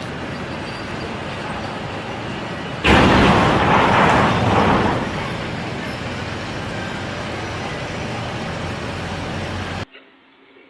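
Steady road-vehicle noise with a sudden loud rushing burst about three seconds in that lasts roughly two seconds before settling back. It cuts off abruptly near the end.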